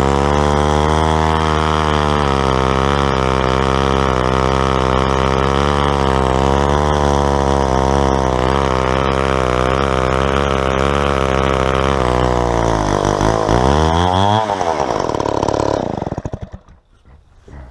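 Stihl 090 two-stroke chainsaw running steadily at high speed under load, milling a log lengthwise with a chainsaw mill. About twelve seconds in the engine speed wavers up and down a few times, then the saw shuts off and runs down, leaving it much quieter near the end.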